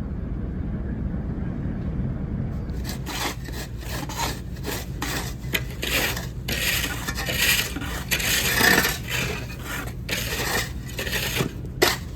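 Snow being cleared by hand: a tool scraping and pushing snow in a run of repeated rasping strokes starting about three seconds in, over a steady low rumble.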